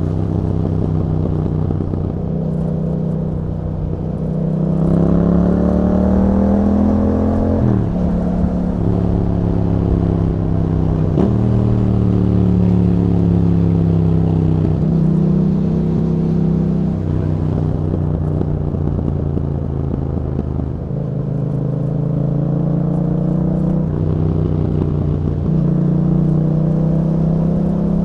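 Yamaha MT-07's parallel-twin engine through an aftermarket Akrapovič exhaust with dB killer, heard from on the bike while riding. The engine note climbs under throttle and drops sharply at gear changes or when backing off, several times over.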